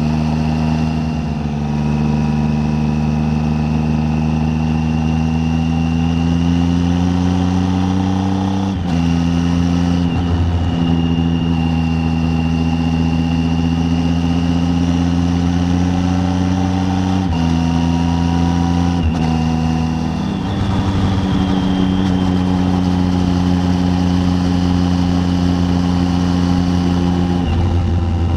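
Triumph Tiger 800's three-cylinder engine running at road speed while riding, its note holding steady and then stepping to a new pitch several times with throttle and gear changes.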